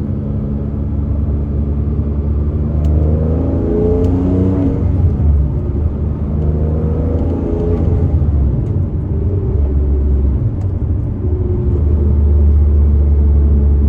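Turbocharged Porsche 987.1 Cayman S flat-six engine driving under way: its pitch rises twice as the car accelerates, then it settles into a steady low drone. The engine runs well on new spark plugs and coil packs fitted to cure a misfire.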